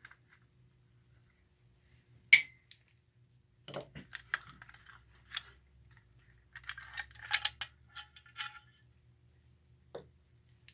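Parts of a die-cast Marx 666 toy locomotive clicking and clattering as it is handled and taken apart by hand. There is a sharp click about two seconds in, then scattered taps, a rattling cluster past the middle, and a soft knock near the end.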